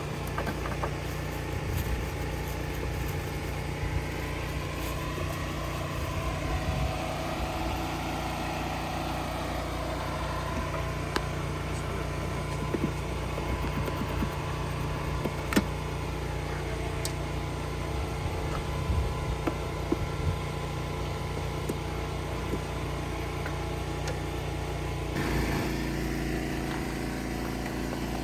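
An engine running at a steady idle, a low even hum, with a few light clicks over it; its sound shifts about 25 seconds in.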